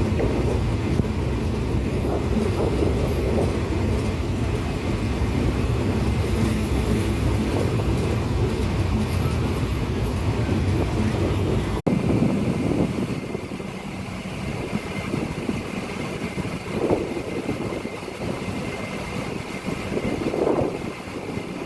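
Train running on the rails with a steady heavy rumble. About halfway through the sound cuts abruptly to a lighter, steadier noise with much less rumble.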